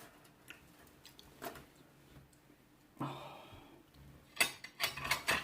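Scattered light clicks and taps of handling food and tableware while eating. A short rustle comes about three seconds in, and a quick run of clicks near the end.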